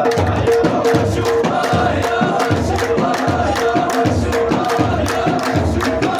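Ahwash folk music: a group chanting together over a steady frame-drum beat, with a repeated held melodic note.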